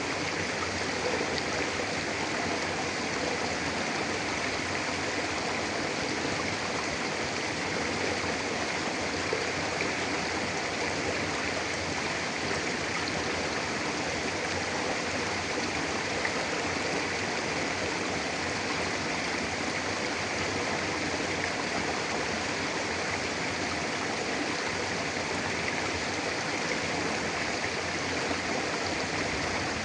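Mountain river flowing steadily over rocks: an even rushing and gurgling of water.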